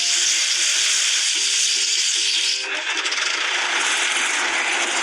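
A loud, steady hiss with faint music notes underneath that fade out about halfway through.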